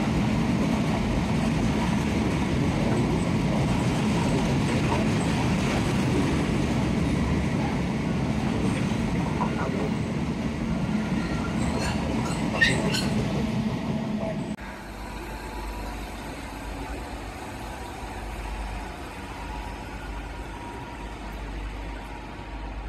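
A train running past with a steady heavy rumble and a few sharp clicks from the wheels on the rails. About two-thirds of the way through it cuts off suddenly to a much quieter, low background rumble.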